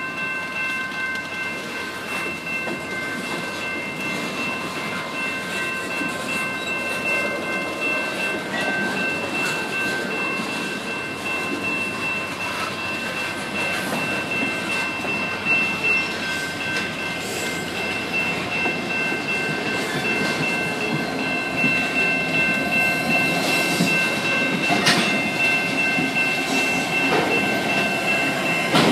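Freight train of tank and hopper cars rolling past, with steady high-pitched tones running throughout. Near the end a Canadian Pacific diesel locomotive draws alongside and the sound grows louder.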